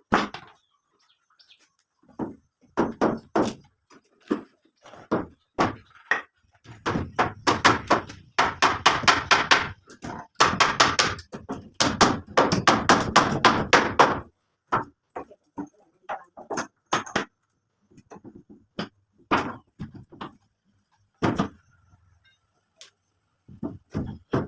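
Hand-tool blows on wood: scattered single knocks, then a dense run of rapid strikes for several seconds in the middle, then scattered knocks again.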